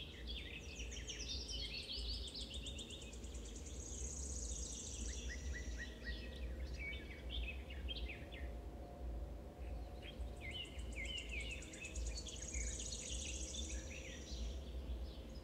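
A songbird singing in two long runs of quick chirps and sweeps, each ending in a high buzzy trill, over a steady low hum.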